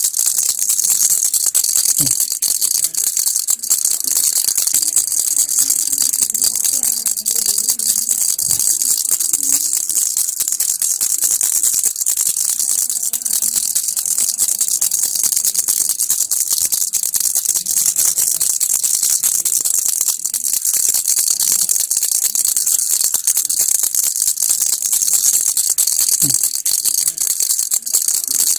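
Baby rattle (kilukki) shaken without pause: a dense, even rattling that keeps going at the same level throughout.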